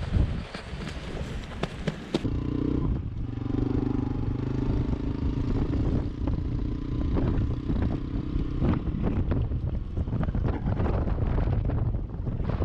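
Honda Cross Cub motorcycle engine running steadily under way, with wind buffeting the microphone; a clatter of clicks in the first two seconds.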